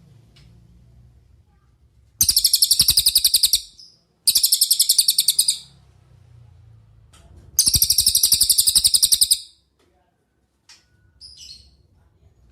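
Cililin songbird singing: three loud trills of fast-repeated high notes, each lasting one to two seconds, followed by a few short, faint chips near the end.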